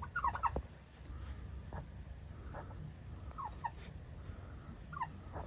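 Turkey calling: short falling notes in small clusters, three quick ones near the start, two more midway and another near the end.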